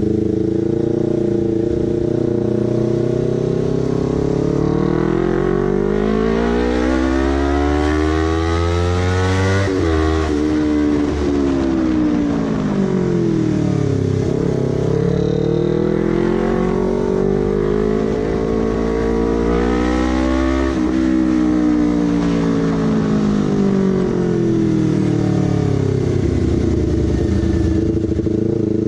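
Honda CBR250RR's engine and exhaust under way: the revs climb smoothly, break off about ten seconds in and sink, climb again, break off around twenty seconds and sink once more, then hold steady near the end.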